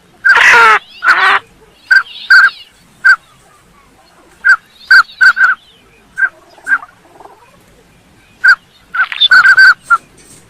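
Lesser whistling ducks calling: short, clipped whistled notes, often in quick pairs and clusters. Near the start there are two louder, harsher calls that fall in pitch.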